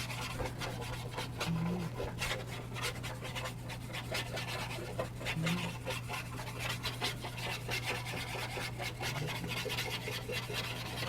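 Round-head paintbrush rubbing loose charcoal dust into textured charcoal paper in light circular strokes: a continuous soft, scratchy brushing made of many small quick strokes.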